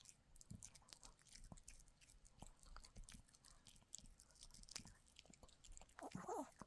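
A dog chewing and gnawing on a chew, with faint irregular crunches and clicks of teeth. A brief louder noise comes near the end.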